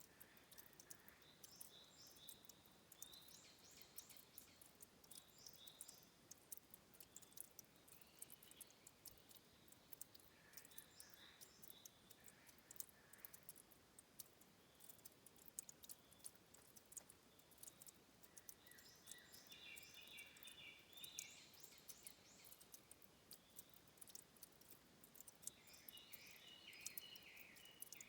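Faint forest headwater ambience: water at a spring source dripping and trickling as a fine, constant ticking, with small birds giving short high chirps in several bursts, the clearest around twenty seconds in and near the end.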